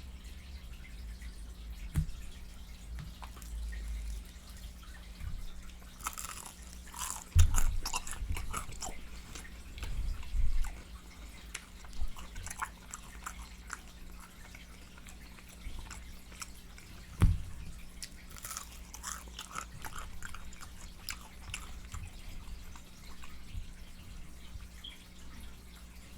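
Close-miked eating of Popeyes fried chicken: wet chewing and lip smacking in irregular clusters, with a few dull low thumps, the loudest about seven and seventeen seconds in.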